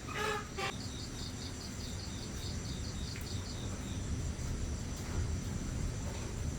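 Insects, likely crickets, trilling steadily and high-pitched. Near the start a second insect joins with a regular series of chirps, about five a second, which stops about four seconds in. A brief pitched call sounds at the very start.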